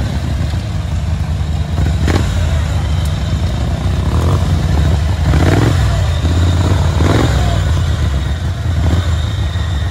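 Small engine of a modified riding-mower rock crawler running under load and revving as it works over a rock pile. There is a sharp knock about two seconds in.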